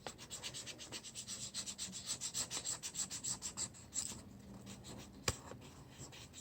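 Marker scribbling back and forth on paper in quick even strokes, about six a second, for about four seconds, then fainter scratching with a single sharp click near the end.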